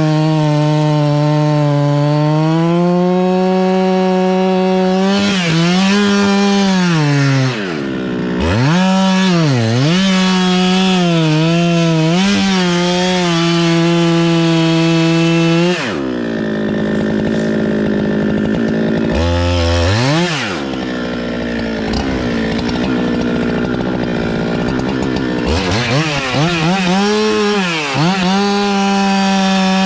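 Chainsaw running hard while cutting wood, its engine note dropping and climbing back again and again as the throttle is let off and squeezed. Around the middle it runs lower and rougher for a few seconds before revving up again.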